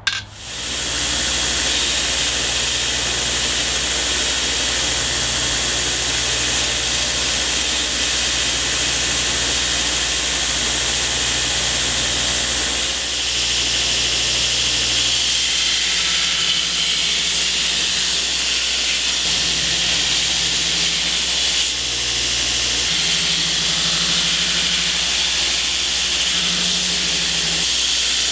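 Brodbeck 2x72 belt grinder running with a knife blade being ground on the abrasive belt for a full flat grind: a steady, loud hiss of steel on the belt over the motor's low hum, which steps up and down in pitch every couple of seconds.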